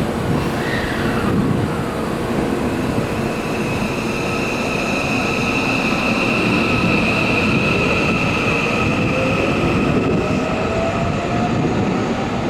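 Electric commuter train moving along the platform, with continuous rumble of wheels on rails. A high steady squeal holds for several seconds in the middle, and a tone rises slowly near the end.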